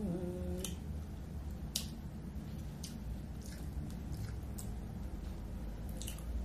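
Close-miked eating: chewing shrimp with wet lip smacks and mouth clicks about once a second. A hummed "mmm" trails off in the first moment.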